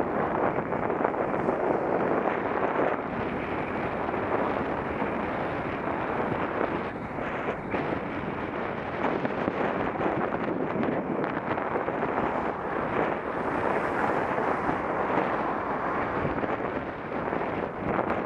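Wind rushing over an action camera's microphone while cycling, a steady noisy rush that swells and dips.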